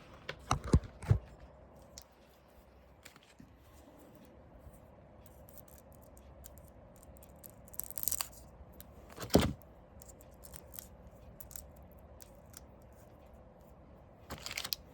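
Small parts being handled and unwrapped from their plastic wrap: a few sharp knocks and clicks of hard parts on a surface in the first second, a short rustle of plastic about 8 s in, and another knock soon after.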